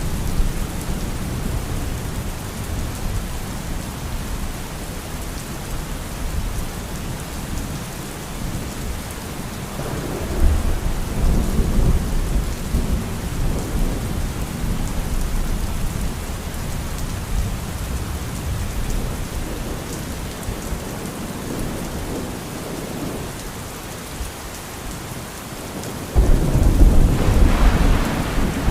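Steady rain with rolling thunder: a low rumble swells about a third of the way in, and a louder peal breaks out suddenly near the end.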